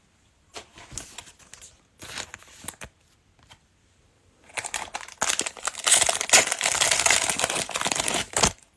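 Foil trading-card pack wrapper crinkling and being torn open, with a few short crackles at first and then a long, loud stretch of crinkling in the second half.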